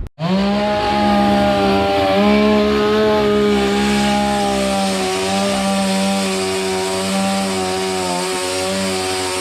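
Two-stroke chainsaw running at full throttle, cutting up a storm-felled tree. It holds a steady high pitch with only slight dips.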